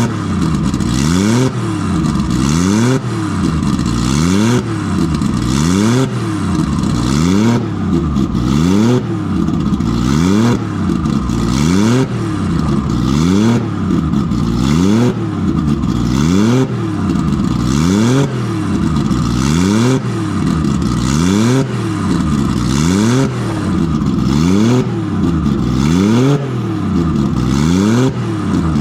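Nissan RB20 inline-six engine being free-revved in quick repeated blips, about once a second, its pitch rising sharply and falling back each time. It is running on all six cylinders now that a faulty lifter holding cylinder 5's intake valve open has been replaced.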